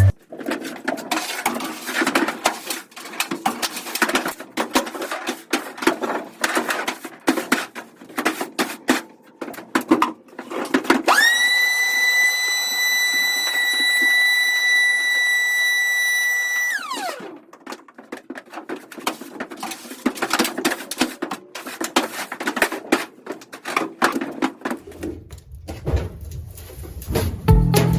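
Work noise of clicks, knocks and clatter, with a small electric power tool whirring for about six seconds near the middle: it spins up to a steady high whine, then winds down. Background music comes back near the end.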